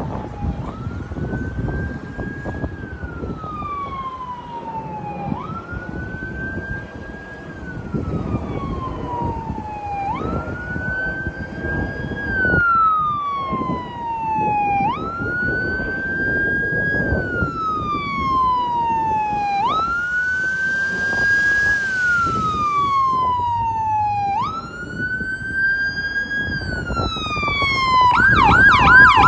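Emergency vehicle electronic siren on a slow wail: each cycle jumps up quickly, then slides slowly down over about four seconds, six times over. About a second before the end it switches to a fast yelp.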